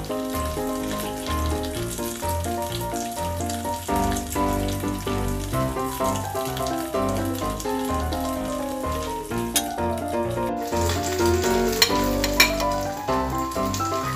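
Slices of meat frying in oil in a black pan over a gas flame: a steady sizzle, with a few sharp clicks in the second half, under background music with a melody.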